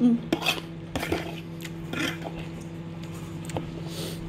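Wet chewing and a few sharp lip smacks from someone eating soft, squishy food, over a steady low hum.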